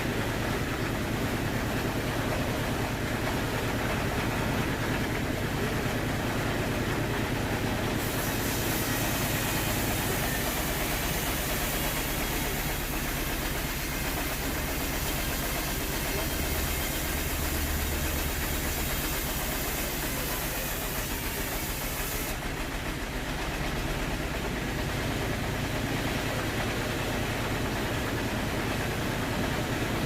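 Sawmill saw running steadily. About eight seconds in, a louder high hiss joins, as the blade cuts through a log; it stops suddenly after about fourteen seconds.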